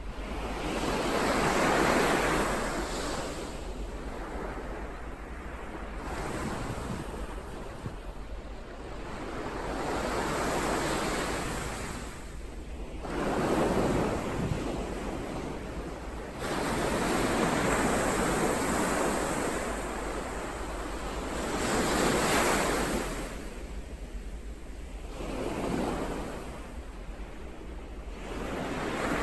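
Ocean surf: about six waves swell up and fall away, a few seconds apart, over a steady low rumble.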